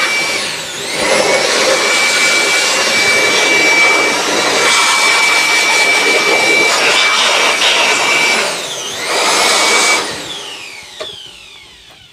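Electric handheld air blower running with a high motor whine that dips briefly twice and comes back up, then switched off about ten seconds in and winding down.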